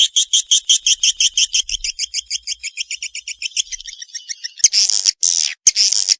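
Recorded swiftlet calls, as used to lure swiftlets: a fast, even run of high chirps, about six a second, that fades about four seconds in. Louder, harsher buzzing calls follow and cut off abruptly twice.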